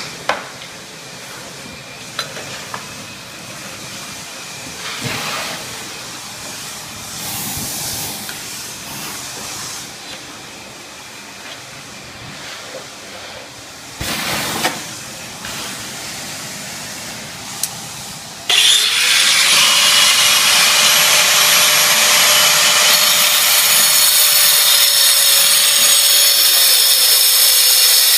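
Power saw cutting travertine, starting abruptly about two-thirds in and running loud and steady with a hissing cut and a motor whine that drops slightly near the end. Before it, quieter knocks and scraping.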